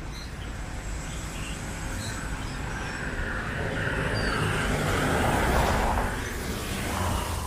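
Street traffic: car engines and tyres running steadily, with one vehicle passing close and loudest about five to six seconds in.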